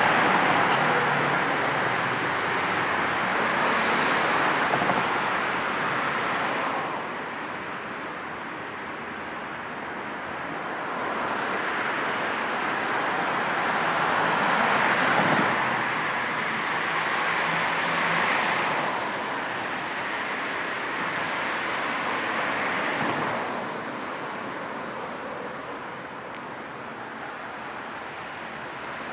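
Road traffic going by: a continuous tyre-and-engine hiss that swells as cars pass and eases in lulls, several times over.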